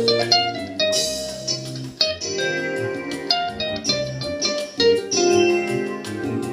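A live instrumental jazz piece. Guitar notes are plucked over held low bass notes.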